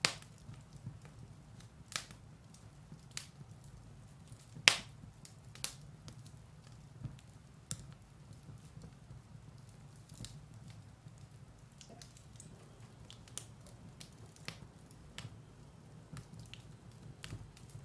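Firewood burning in a fireplace: scattered sharp crackles and pops over a low, steady rumble of the fire, the loudest pop about five seconds in.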